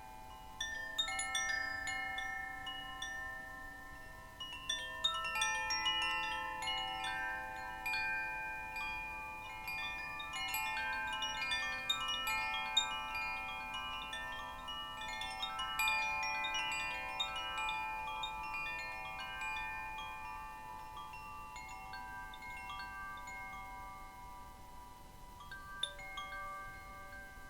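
Wind chimes sounding: many clear metal tones at different pitches struck in quick succession and ringing on over one another, with small tinkling strikes. The chiming is busiest through the middle and thins out near the end, with one last single note.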